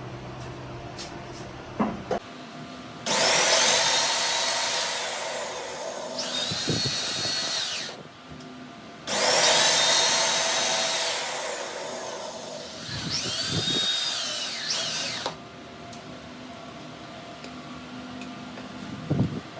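Small high-speed power tool motor run in two bursts of about five and six seconds, its whine starting high and dropping in pitch partway through each as it takes load. A few light clicks come before and after.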